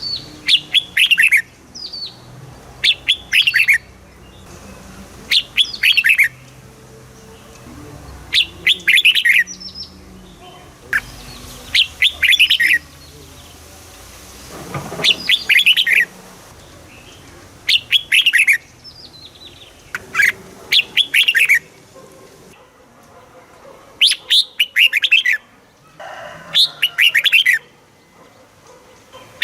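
Red-whiskered bulbul singing: about ten short phrases of quick, falling chirpy notes, one roughly every three seconds, each loud and clear against a faint background.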